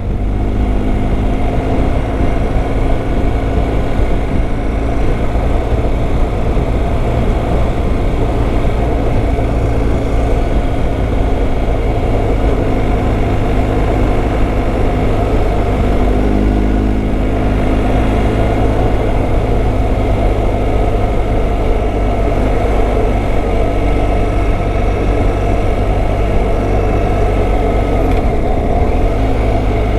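Motorcycle engine running steadily while under way on the road. Its pitch shifts briefly about halfway through.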